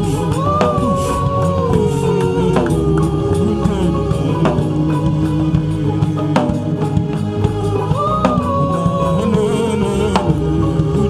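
Slow live worship music: sustained chords with a gliding melody that rises to a held high note and slowly falls back, the phrase coming twice, over a steady low bass and a sharp percussive hit about every two seconds.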